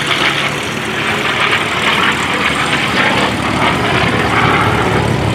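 F4U Corsair's Pratt & Whitney R-2800 radial engine and propeller running at power in flight, a deep rumble that grows louder about four seconds in.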